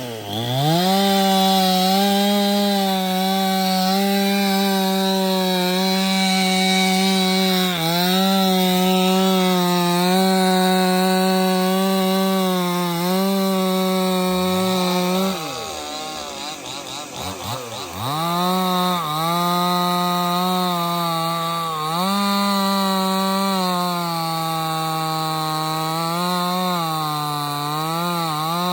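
Stihl 070 two-stroke chainsaw at full throttle cutting into teak, its pitch steady with brief dips as the chain bites. About halfway it comes off the throttle for a few seconds, its revs gliding up and down, then goes back to full throttle. It cuts on with the pitch sagging under load several times near the end.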